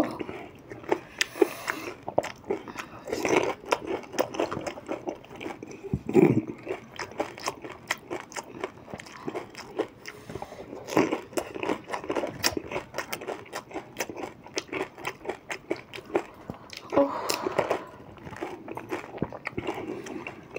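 Close-up chewing and crunching of crisp pani puri shells stuffed with green chillies: dense, crackly clicks of biting throughout, with a few louder spells of crunching.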